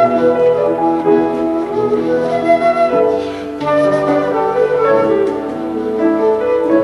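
A flute playing a melody over instrumental accompaniment that includes piano.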